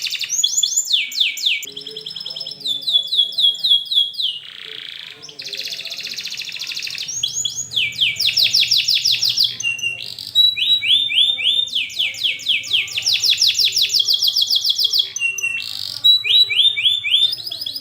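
Domestic canary singing a long, unbroken song of rolls and chirps: fast runs of repeated falling notes, about seven or more a second, switching to a new phrase every second or two.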